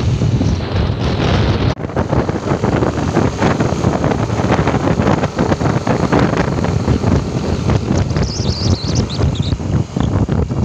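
Wind buffeting the microphone of a moving road vehicle, over its engine and road noise. A few faint high chirps come in about eight seconds in.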